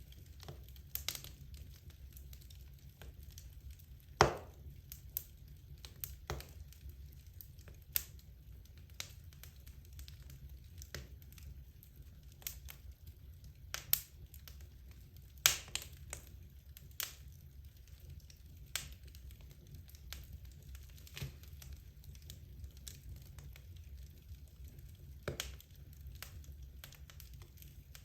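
Wood logs burning in a fireplace, crackling with irregular sharp pops, two louder snaps about four and fifteen seconds in, over a faint steady low rumble of the fire.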